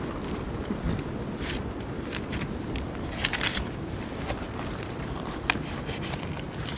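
Wood fire in a tent stove crackling, with a few sharp snaps over a steady low rumble.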